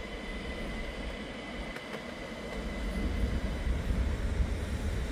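A train running past, with a steady high whine that fades out about halfway through and a low rumble that grows louder in the second half.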